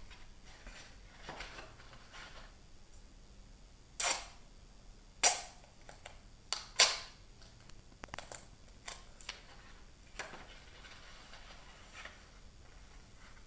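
A series of sharp clicks: the loudest about four and five seconds in and a close pair near seven seconds, with fainter ones after.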